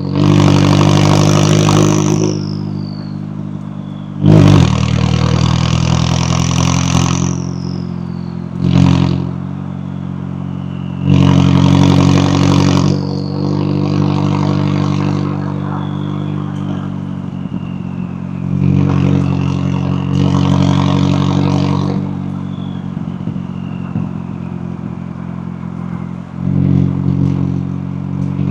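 McLaren 570S twin-turbo V8 exhaust under driving: a series of hard acceleration bursts, each loud and brief, with the engine falling back between them as the throttle is lifted.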